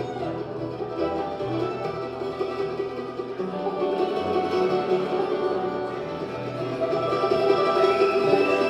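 Bluegrass band playing an instrumental passage of plucked strings, growing a little louder toward the end.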